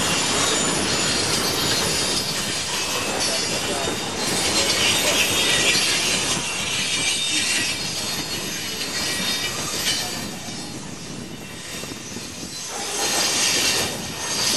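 Cars of a coal train rolling past on the rails, a steady rumble with wheels squealing at times, most strongly a few seconds in and again near the end.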